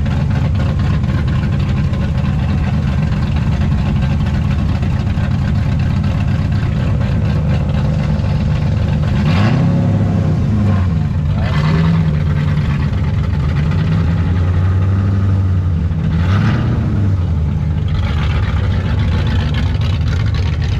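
Car engine idling with a steady low drone, revved briefly twice: once a little before the middle and again about three quarters of the way through.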